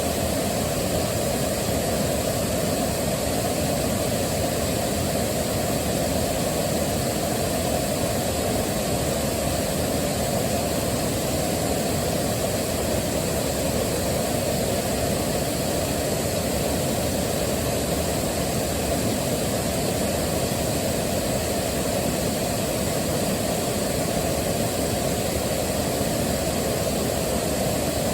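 Waterfall rushing in a steady, deep roar, even and unbroken, with its weight in the low range.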